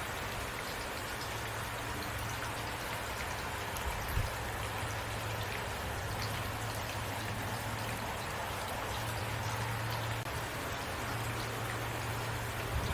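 Steady rainfall, drops pattering on a surface, with a low hum underneath that drops out now and then and a single soft thump about four seconds in.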